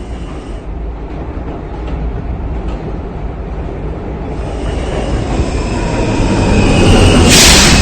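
R160A subway car running on the rails, its rumble growing steadily louder over the last few seconds with a faint wheel squeal, then a sudden loud burst of air hiss near the end as the train comes to its stop.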